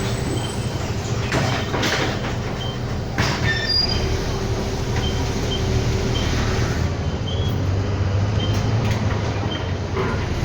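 Inside a moving city bus: steady low engine and road rumble, with small rattles and faint high ticks now and then.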